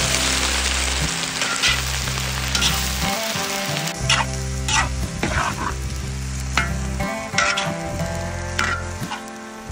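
Shredded cabbage sizzling in a large wok while a metal ladle stirs it, with sharp scrapes and clinks of the ladle against the wok about once a second.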